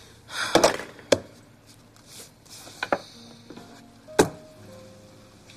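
A handful of sharp, irregular knocks like a knife chopping on a cutting board, loudest about half a second in and again about four seconds in.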